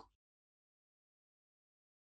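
Near silence: a digital-silence pause between spoken syllables.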